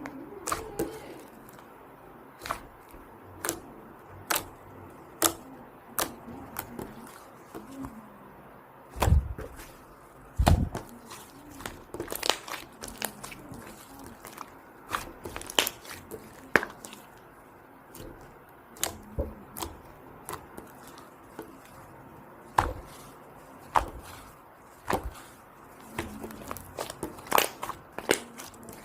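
Irregular sharp clicks and taps, about one every second or two, with two heavier low thumps about nine and ten seconds in.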